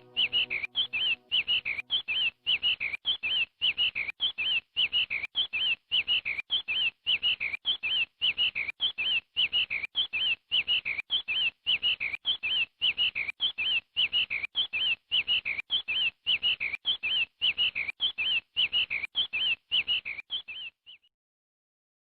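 A small bird chirping over and over in quick, even succession, about three short high chirps a second, stopping abruptly about a second before the end.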